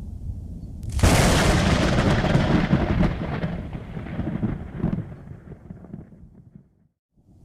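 Thunder: a low rumble breaks into a sudden loud crack about a second in, which rolls and dies away over the next few seconds. The sound cuts out briefly near the end, then a low rumble starts again.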